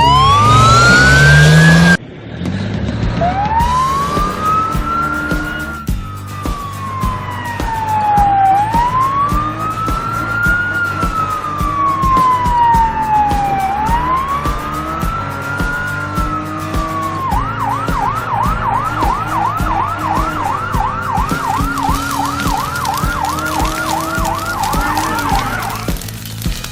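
Siren sound effect: a loud rising glide that cuts off about two seconds in, then a slow wailing siren rising and falling three times, switching to a fast yelp, about three to four cycles a second, for the last third. Low backing music plays underneath.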